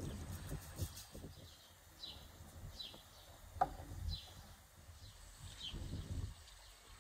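A songbird repeating a short, falling chirp about once a second outdoors, over low rustling and handling noises, with one sharp click about three and a half seconds in.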